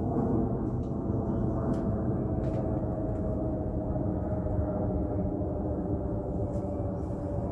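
Aircraft passing overhead: a steady engine rumble with a whine that slowly falls in pitch as the plane goes by.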